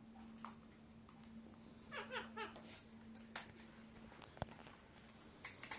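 A pet parrot gives a quick run of three or four short, soft chirping calls about two seconds in. Scattered sharp clicks and a faint steady hum are heard throughout.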